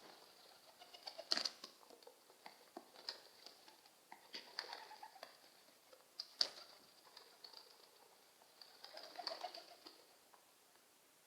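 Pigeons: faint, scattered taps and clicks, with soft low cooing about four seconds in and again near the end.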